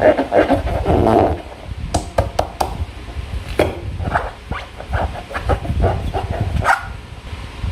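Slime being squeezed and squished by hand, an irregular run of wet squelches and sharp clicks.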